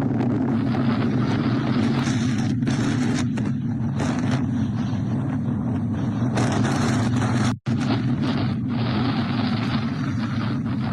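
A motor vehicle's engine running steadily, with rushing noise over it; the sound cuts out for an instant about seven and a half seconds in.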